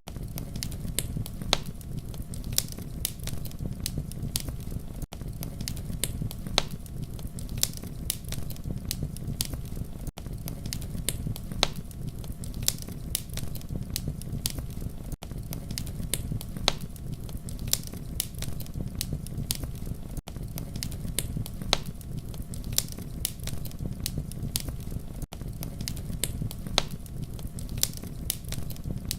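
Campfire crackling steadily over a low rumble, with frequent sharp pops of varying loudness. The level briefly dips about every five seconds.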